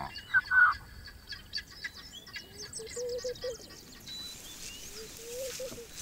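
Wild birds calling: a loud short call about half a second in, then scattered high chirps and a lower warbling call that comes twice.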